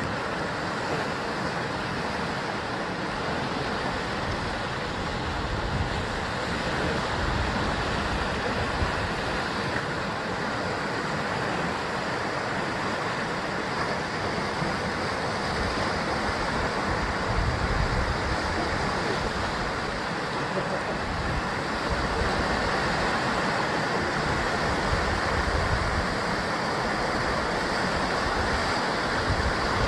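Sea waves breaking and washing against a rocky basalt coastline, a continuous surf with a deep rumble swelling every several seconds.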